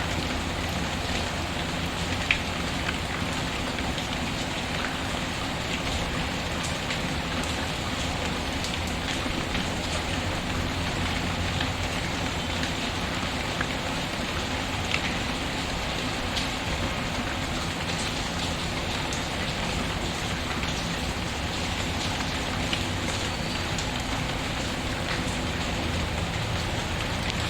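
Steady rain patter mixed with a wood fire burning, with scattered sharp crackles and pops.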